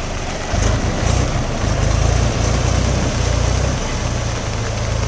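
Tractor engine running with a low, uneven rumble, under a steady hiss.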